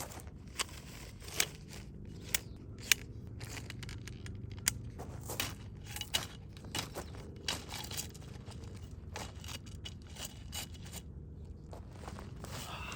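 Food wrapping being opened and handled: irregular sharp crinkles, crackles and tearing, with a few louder snaps in the first three seconds.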